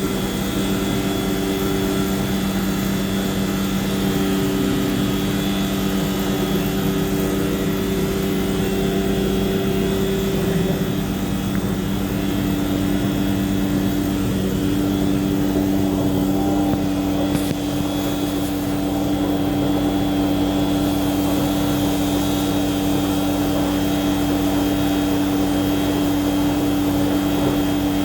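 Steady mechanical drone of heavy machinery running, with a constant hum. One of its higher tones steps down a little about halfway through.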